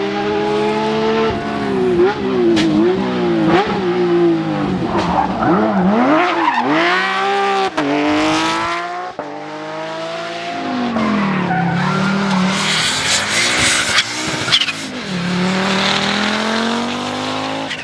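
Rally car engine revving hard, its pitch swinging rapidly up and down again and again as the throttle is worked and gears change.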